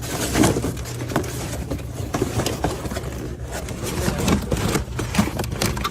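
Cardboard boxes being rummaged through, with irregular rustling, scraping and knocking, over a steady low machine hum.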